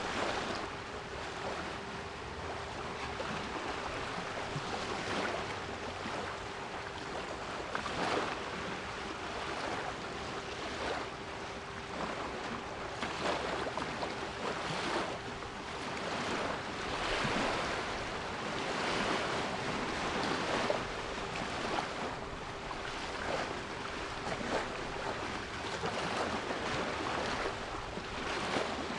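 Sea waves washing in and breaking, swelling and ebbing every few seconds, with a steady 396 Hz pure tone held underneath.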